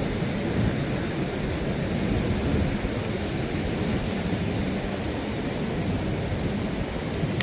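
Steady rumbling noise of wind and ocean surf, with rain; the energy sits mostly in a low rumble with no distinct events.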